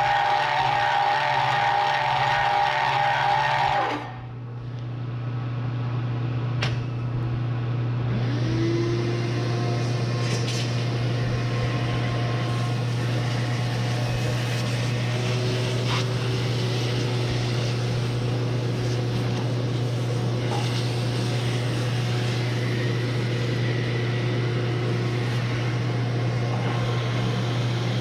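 Bridgeport milling machine running a hole saw through steel, a harsh cutting noise with a steady ringing tone, which stops abruptly about four seconds in. A steady electric motor hum remains, and a little later a motor spins up with a rising whine that settles into a steady tone.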